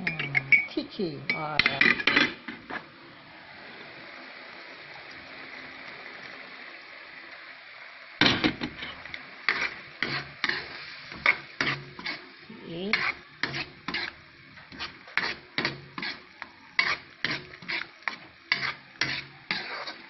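A utensil stirring sauce in a cooking pan, scraping and clinking against the pan in repeated strokes, about one or two a second, from about eight seconds in, as cornstarch is worked in to thicken the sauce. Before that, the pan gives a steady hiss for several seconds.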